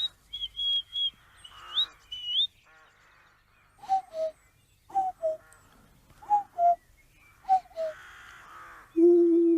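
A man imitating birdcalls with his mouth: first whistled notes that slide upward, then four two-note calls, each dropping in pitch, about a second apart. A long wavering hoot begins near the end.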